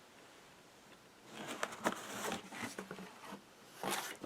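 Drone packaging being handled and opened: faint rustles, scrapes and small clicks of cardboard and plastic, starting about a second in, with one more rustle near the end.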